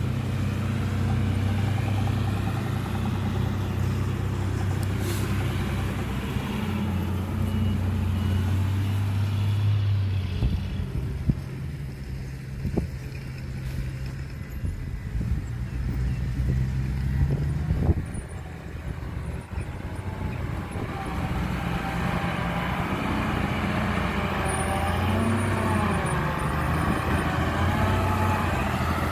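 Heavy diesel earthmoving machinery running, a dump truck and a bulldozer at work, with an engine drone whose note shifts as they work and a few sharp knocks midway.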